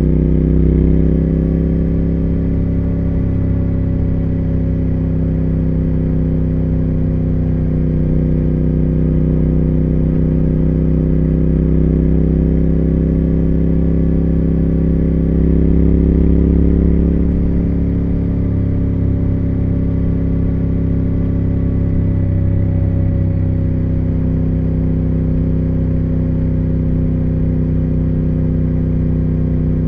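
Triumph Speed Twin 1200's 270-degree parallel-twin engine and exhaust running at a steady cruise, the pitch drifting only slightly up and down with small throttle changes.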